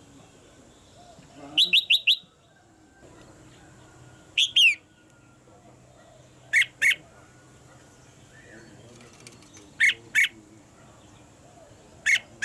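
Red-whiskered bulbul calling in short, loud bursts of clear whistled notes. There are five phrases a few seconds apart: the first is a quick run of four notes, and most of the rest are pairs.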